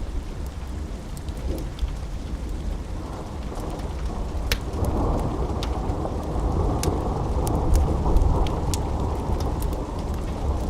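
Steady rain with a long roll of thunder that swells from about four seconds in, is loudest near eight seconds and then eases. Sharp crackles are scattered throughout.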